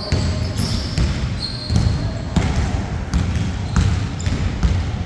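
A basketball bouncing on a court during play, a run of thuds at uneven spacing, mixed with short high squeaks of sneakers on the floor.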